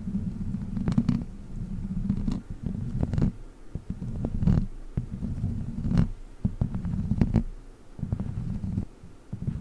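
Witch-finger toy rubbed and squeezed right against the microphone: a low rumbling rub that stops and starts, with sharp clicks and taps every second or so.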